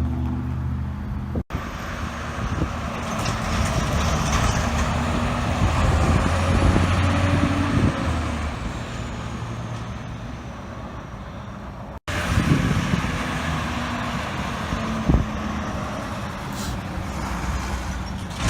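Heavy truck diesel engines running as trucks move past, heard in three edited segments that cut off abruptly twice.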